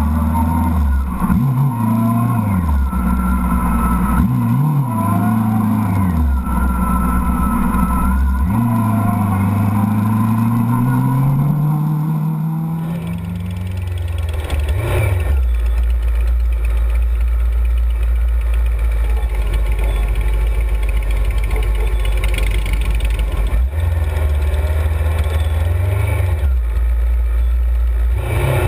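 1994 Honda CBR600F2's inline-four engine heard from a camera mounted on the bike, its revs climbing and dropping several times through throttle and gear changes. About halfway through, after a cut, it settles into a steadier low engine drone.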